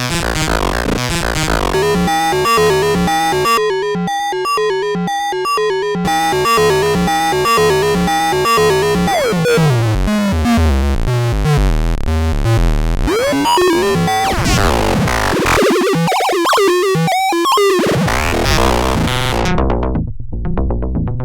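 Analog percussion synthesizer running a sequenced pattern of pitched, drum-like hits in a fast steady rhythm. Sweeping pitch glides come in around the middle, and near the end the highs are filtered away, leaving a dull, bass-heavy pulse.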